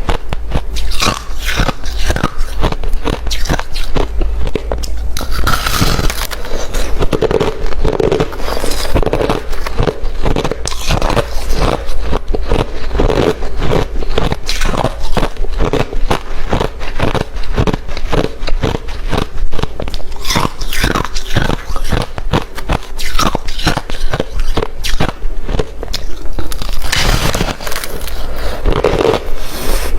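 Close-miked biting and chewing of hard refrozen crushed ice: dense, rapid crunching and crackling that keeps on without a break.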